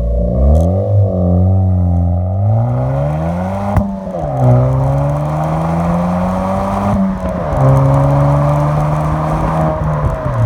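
Suzuki Swift Sport ZC33S's 1.4-litre turbocharged K14C Boosterjet engine heard through a CTC Performance stainless cat-back exhaust, its revs climbing and falling. The pitch rises gradually and drops sharply twice, about 4 and 7 seconds in, then holds fairly steady.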